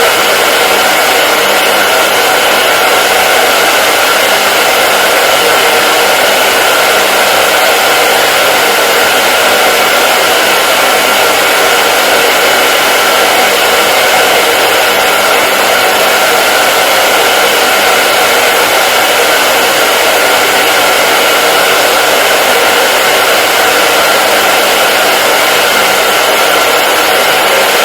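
Hair dryer running steadily: a continuous, even airy rush of the blower with a faint steady whine, unchanging throughout.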